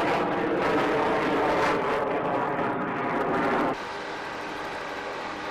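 Jet aircraft in formation flying past: loud rushing jet noise with a steady engine whine, which drops off abruptly about two-thirds of the way in, leaving a quieter steady hum.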